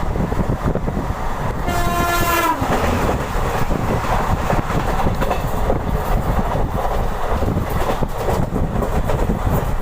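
Deccan Queen express running at speed: a steady rumble of wheels on rails, broken about two seconds in by one short train horn blast under a second long whose pitch dips as it ends.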